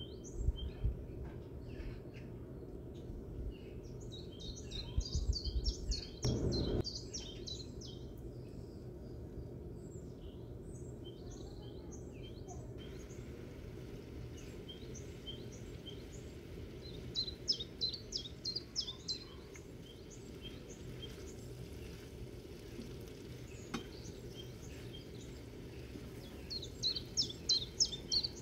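Birds chirping in short rapid clusters and scattered single calls over a steady low hum, with one dull thump about six and a half seconds in.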